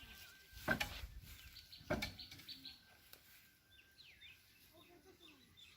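Small birds chirping, with short high calls through the second half. Two loud, sudden noises cut across them, about a second in and again about a second later.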